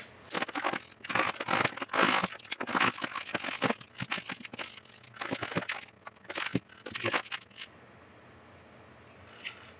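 Packaging being handled and opened: crinkling, tearing and scraping with scattered clicks, in quick irregular bursts that stop about eight seconds in.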